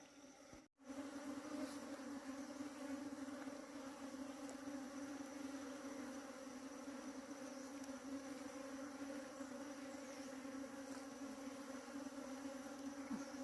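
Many bees buzzing, a steady low hum that starts after a brief drop to silence just under a second in.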